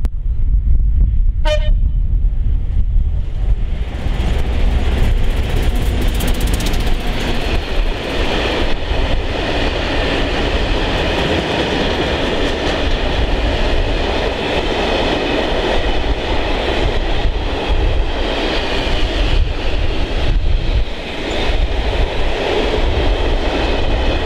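Class 56 diesel locomotive 56312 gives a brief horn toot about a second and a half in, then passes with its Ruston 16RK3CT engine running loud. A long rake of box scrap wagons follows, rolling past with steady wheel and rail noise and some clickety-clack. Wind buffets the microphone at first.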